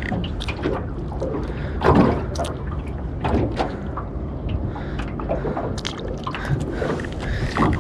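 Water splashing and dripping in short, irregular spurts as a freshly hooked squid is handled at the side of the boat.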